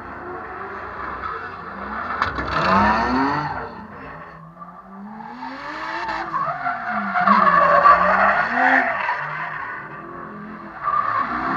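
Drift cars sliding through with engines revving up and down and tyres squealing. There are two loud passes, a shorter one about two to four seconds in and a longer, louder one from about six to nine seconds.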